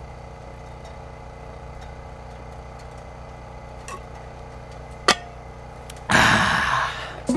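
Vehicle engine idling as a steady low hum, with a sharp click about five seconds in and a loud rush of noise lasting about a second near the end.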